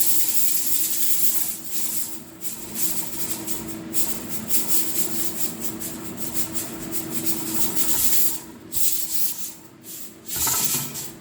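Pressure cooker under pressure, hissing steam steadily, with a few brief breaks in the hiss.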